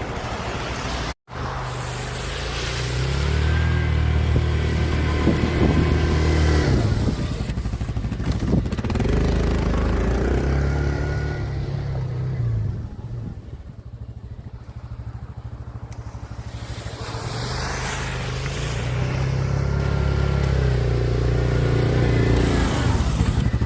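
Small gas-engine snowblower running steadily. It fades to a lower level for a few seconds in the middle, then grows louder again. The sound cuts out completely for an instant about a second in.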